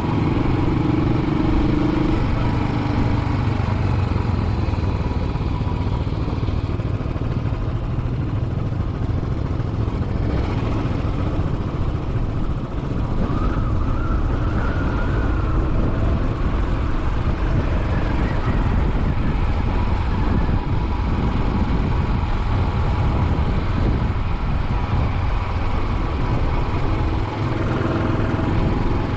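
Royal Enfield Classic 500's single-cylinder engine running steadily as the motorcycle rides along, with road and wind noise.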